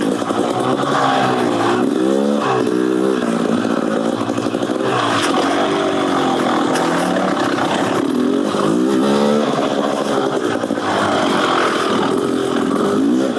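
Beta Xtrainer 300 two-stroke single-cylinder dirt bike engine, fitted with an FMF Gnarly exhaust and a jet kit, revving up and down repeatedly as it is ridden.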